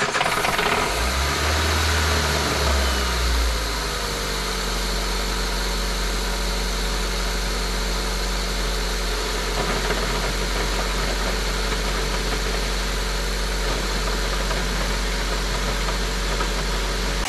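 2003 Honda Civic's D17 1.7L inline-four engine, just started, running a little higher for the first few seconds, then settling to a steady idle about three and a half seconds in. The engine makes clunky noises that the owner likens to failing wrist pins but that go quiet with the clutch pushed in, pointing to a clutch and flywheel fault.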